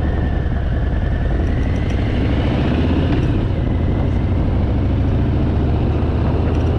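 Harley-Davidson V-twin motorcycle engine running steadily at cruising speed, a continuous low rumble whose pitch rises and eases slightly about two to three seconds in.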